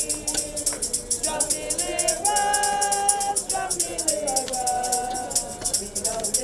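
Gospel singing with voices holding long notes over a hand percussion rattle shaken in a steady, fast beat.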